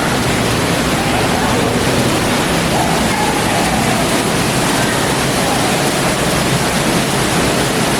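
Steady loud rush of the Awhum waterfall's falling water, an even roar with no breaks.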